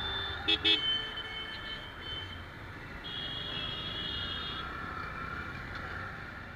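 Two quick horn beeps about half a second in, over steady road and wind noise from a motorcycle riding in traffic. A steady high-pitched tone sounds for about a second and a half from about three seconds in.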